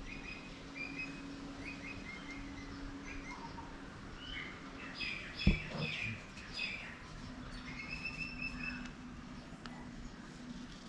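Small birds chirping repeatedly over a faint steady hum, with one sharp knock about five and a half seconds in.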